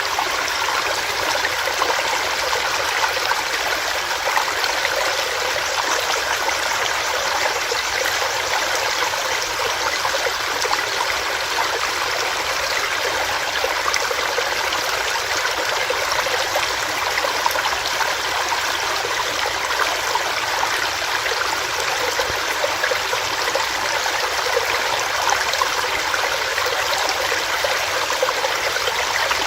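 Small stream running over rocks, a steady splashing and gurgling rush of water.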